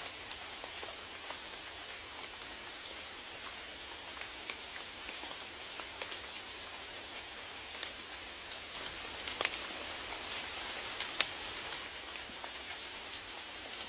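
Rain falling steadily, a soft hiss with scattered individual drops ticking on a surface; a few louder drop strikes stand out around the middle.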